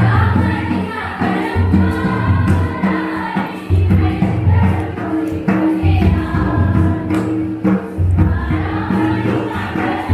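A traditional Karam festival song: a group of voices singing together over a repeating low beat.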